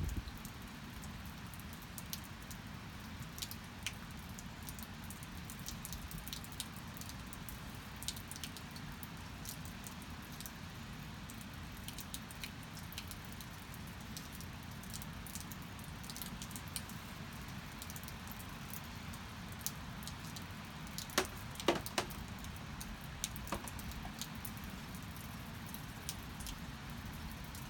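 Steady rain with scattered drips and small taps throughout. A short cluster of louder taps comes about three-quarters of the way through.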